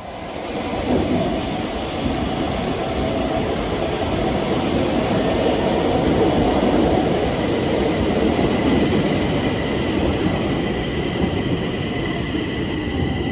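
Stockholm Metro train running, a loud steady rumble that swells about a second in, with a thin high whine growing over the second half.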